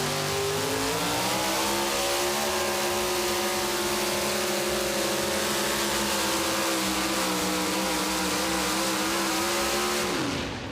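Super modified pulling truck's engine at full throttle, its pitch climbing about a second in and then holding high and steady with a slight warble. Near the end the revs drop sharply and the sound falls away as the pull ends.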